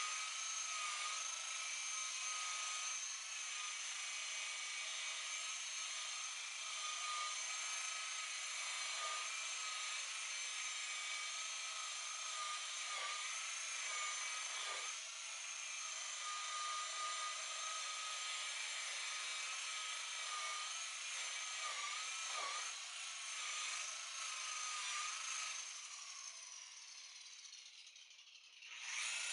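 Electric rotary buffer running steadily with a high whine while buffing a boat hull, dipping in pitch briefly twice as it is pressed under load. Near the end it winds down with falling pitch, then is started again and spins back up just before the end.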